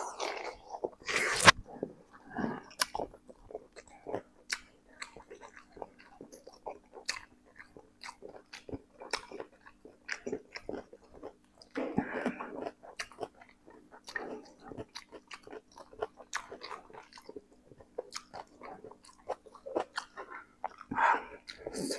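Close-miked mouth sounds of a man eating spicy instant noodles: wet chewing and smacking full of small sharp clicks, with a couple of louder breathy sounds about halfway through and near the end.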